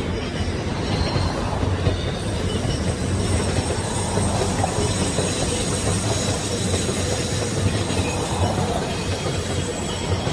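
Freight train of container wagons and tank cars rolling past: a steady rumble of steel wheels on the rails, with a faint high squeal above it.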